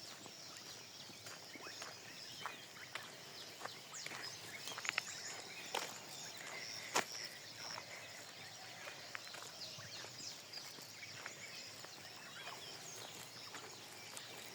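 Footsteps walking along an outdoor path, an irregular run of light taps, with birds chirping faintly in the background.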